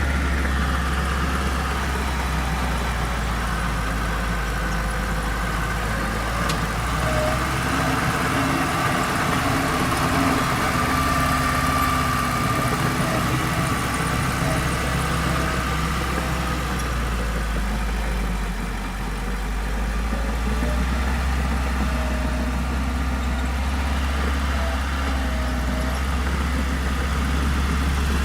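Heavy diesel engine of earthmoving machinery running steadily, dipping briefly about two-thirds of the way through.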